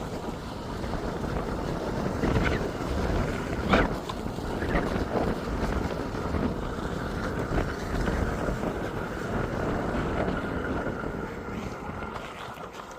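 Wind buffeting the microphone: a steady, uneven rumble, with a few brief knocks in the first half.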